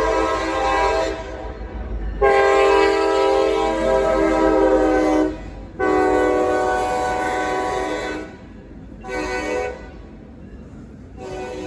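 Norfolk Southern freight locomotive's multi-chime air horn sounding the grade-crossing signal: two long blasts, a short one, then a long one starting near the end, over the low rumble of the train.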